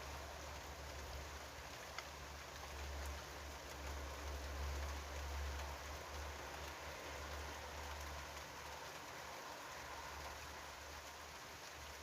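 Steady rain falling, an even hiss, with a low rumble underneath that is stronger in the first half and fades toward the end.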